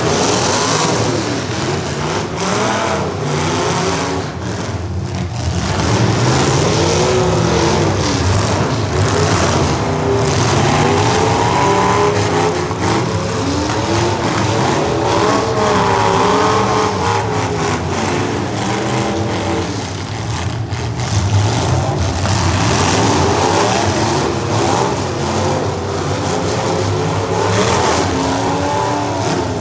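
Several modified derby-car engines revving hard together, rising and falling as the cars accelerate and back up, with scattered bangs of cars crashing into each other.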